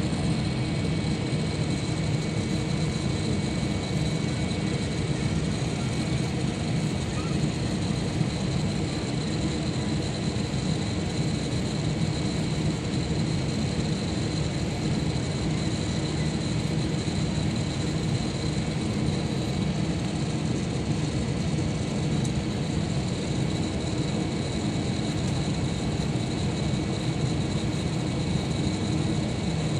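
Airliner cabin noise in flight: a steady rush of engine and airflow noise with a deep low hum and a few faint steady high tones. It does not change throughout.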